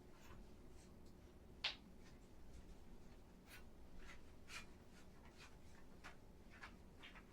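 Faint, irregular scrubbing and wiping strokes against a bathroom surface during cleaning, with one sharper click about one and a half seconds in.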